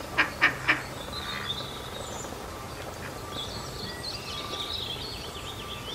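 Duck quacking about four times in quick succession in the first second, then steady background noise with small birds chirping.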